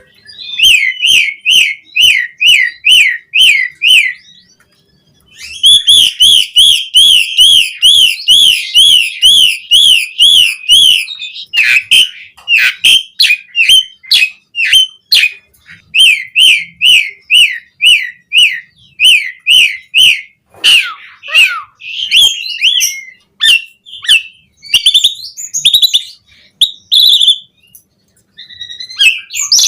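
Asian pied starling (jalak suren) in full song, with varied imitated phrases. It gives runs of quick, repeated whistled notes, about two to three a second, pauses briefly about four seconds in, then switches between changing phrases.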